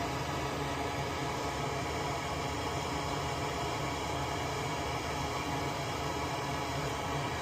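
Steady whirring hum from a small electric motor, unchanging throughout.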